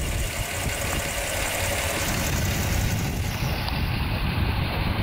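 1960 Dodge Phoenix engine idling steadily just after being started, heard through the open hood.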